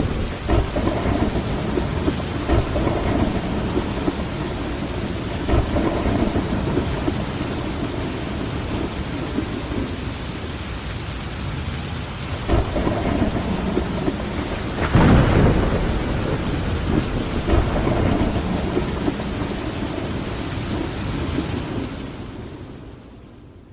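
Steady rain on a window, with repeated rumbles of thunder; the heaviest rumble comes a little past the middle. The sound fades out near the end.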